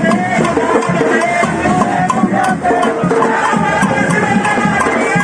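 Live percussion music, with drums and hand percussion keeping a steady beat under singing voices.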